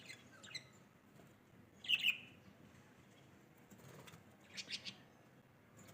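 Birds calling in short, high-pitched chirps: a few at the start, a loud call about two seconds in, and another couple near the end.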